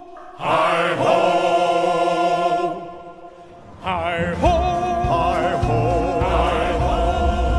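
Wordless choir-style singing with sustained, wavering notes. It drops away about three seconds in and returns a second later, now over a low rumble.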